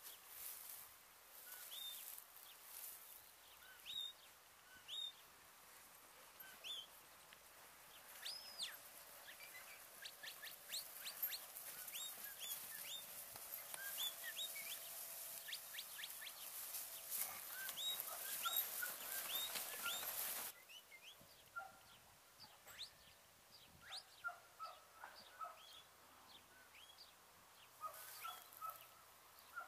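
Small birds chirping and calling in quick short notes, over a steady hiss that cuts off suddenly about two-thirds of the way through.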